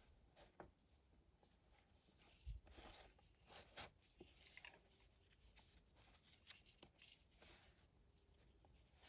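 Faint scratching of graphite pencil on sketchbook paper, in short irregular strokes with a few light taps.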